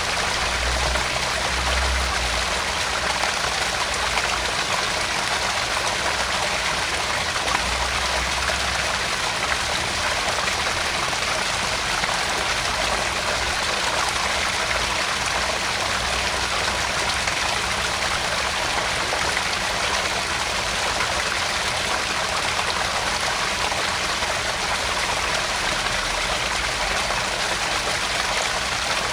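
Garden pond waterfall: water splashing and trickling steadily into the pond.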